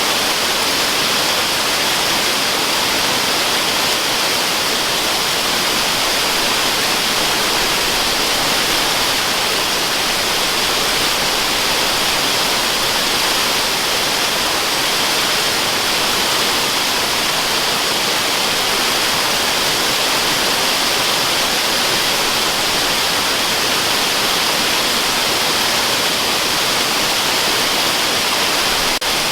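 Waterfall rushing steadily: a continuous, even hiss with no change, apart from a slight momentary dip near the end.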